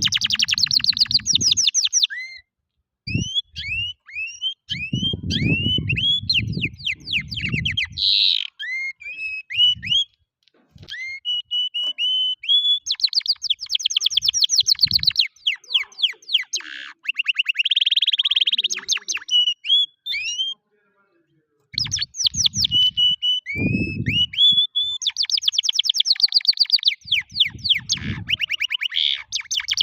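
Canary singing: long, rapid trills and runs of quick rising chirps, broken by a few short pauses. Low muffled sounds come in underneath at intervals.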